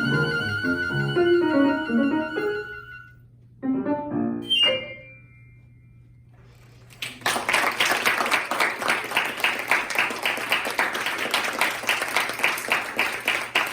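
Flute and piano play the closing bars of a piece, the flute holding a high note over piano chords, then a short final chord about four seconds in. After a couple of seconds' pause, an audience breaks into steady applause.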